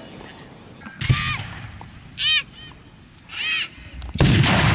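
Fireworks display: short high-pitched whoops and yells from spectators, then a firework bursting with a sharp crack about four seconds in, followed by a loud rush of noise.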